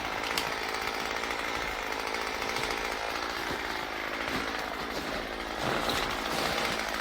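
Chainsaw running steadily, a little louder from about five and a half seconds in.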